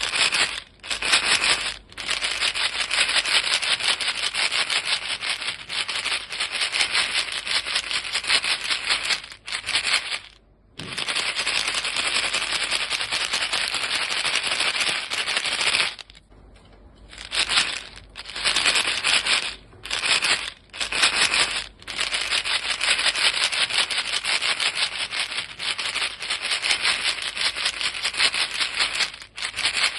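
A box of chewing gum being shaken fast, the pellets rattling in a dense, rapid clatter. The shaking stops briefly several times, with the longest pause about two-thirds of the way through.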